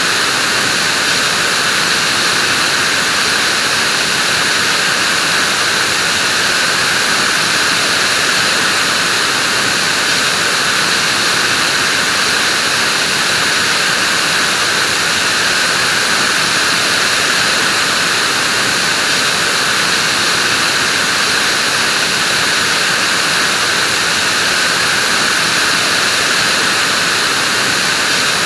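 Vacuum cleaner running steadily, a constant airy whoosh of motor and suction with a strong hiss in the upper-middle range.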